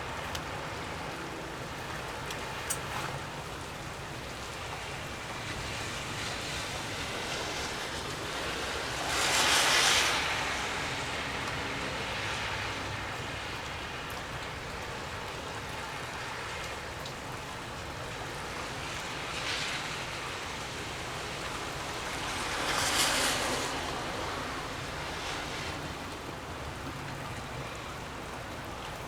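Storm wind rushing steadily, with a steady rain-like hiss. Louder whooshes swell and fade twice, about a third of the way in and near the end, with fainter ones between.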